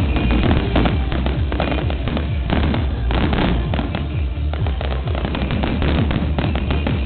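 Fireworks display going off: a dense run of rapid bangs and crackles over a continuous low rumble.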